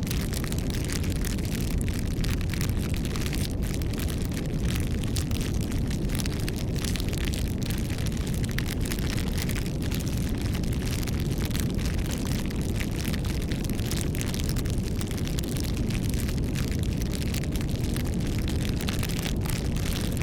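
Bonfire burning, crackling with many small irregular pops over a steady low rumble.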